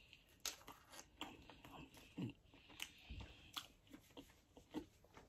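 Faint, irregular crunching and chewing of a crunchy fried chicken wing, with sharp crackles of the breaded coating every half second or so.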